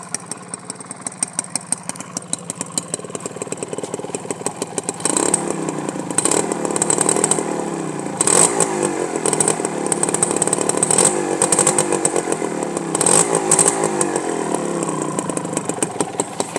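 Honda H100S motorcycle's small single-cylinder two-stroke engine idling with a rapid, even pulse, then revved in repeated throttle blips from about five seconds in, the pitch rising and falling with each one.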